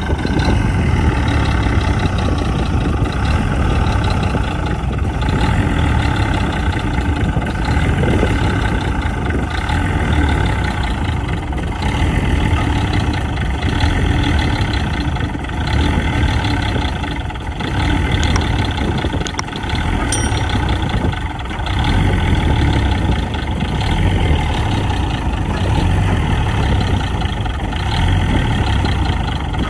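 Heavy diesel engine of earthmoving machinery running steadily, with small swells and dips in level and no sharp events.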